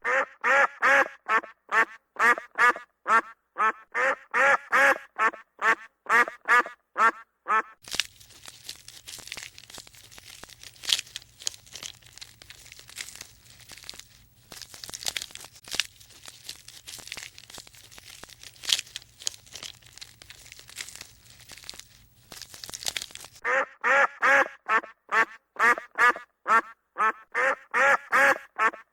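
Animal calls repeated rapidly, several a second, in two stretches at the start and near the end. In between is a long stretch of crackling, rustling noise over a low hum.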